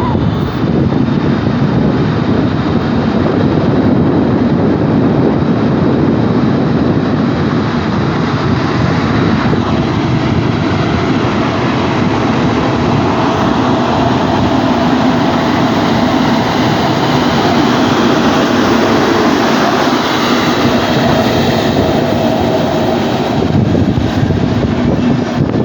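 Passenger train departing, a Škoda electric locomotive and its carriages running on the rails with a steady, loud rumble.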